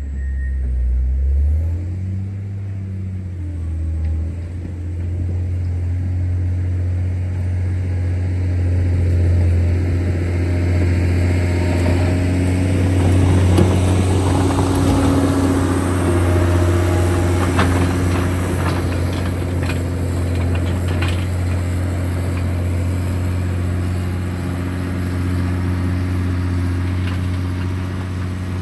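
John Deere 670GP motor grader's diesel engine running steadily under load, with scattered clicks and rattles about halfway through.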